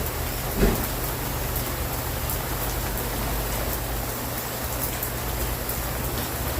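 Steady rain falling, an even hiss of drops on surfaces with a low rumble beneath, and a single brief dull thump just over half a second in.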